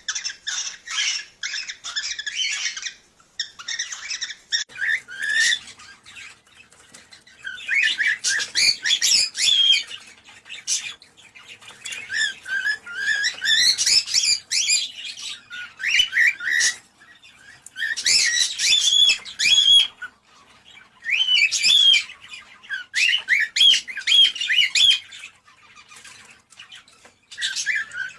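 Cockatiels chirping and warbling in quick, high-pitched phrases that come in bursts of one to three seconds with short pauses between them.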